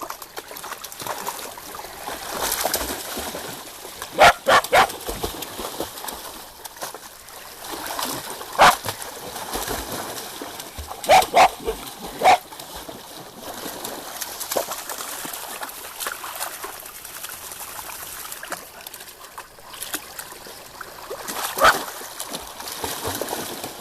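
A dog barking in short, sharp barks at water's edge: a quick run of three, then single and paired barks, and one more near the end. Water splashes and laps steadily between the barks.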